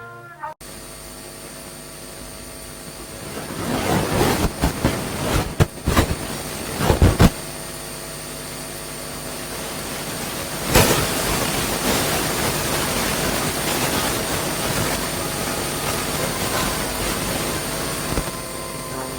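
A steady mechanical background drone with a constant hum, broken by a few sharp knocks, several between about four and seven seconds in and one near the middle.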